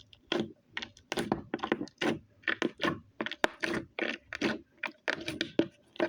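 Putty-like slime squeezed and worked by hand, giving a quick run of short wet squelches and pops, about two to three a second.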